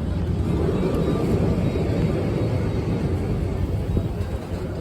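Yellow Lisbon tram running along its track, a steady low rumble of wheels and motor.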